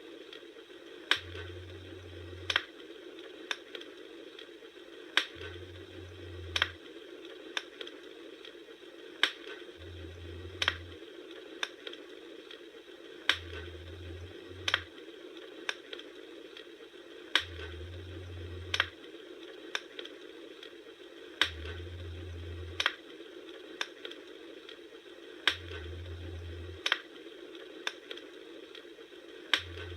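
Campfire crackling: a steady hiss of burning wood broken by sharp pops about once a second, with a low hum that comes and goes every few seconds.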